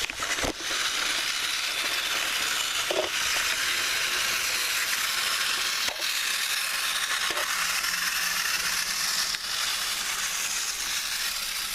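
Battery-powered TrackMaster toy trains running on plastic track: a steady high whir from their small geared motors, with a few faint clicks.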